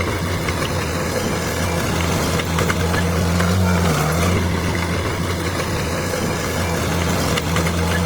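Bulldozer's diesel engine running steadily, its low hum dipping briefly in pitch a couple of times.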